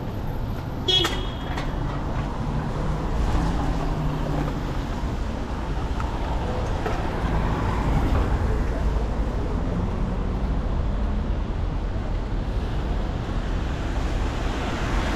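City street traffic: a steady rumble of cars and buses going by, with a brief high-pitched tone about a second in.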